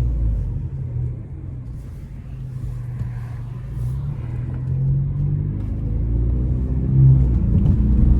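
Ford Mustang 2.3-litre turbocharged four-cylinder engine running with a low rumble, easing off about a second in and building back up louder near the end.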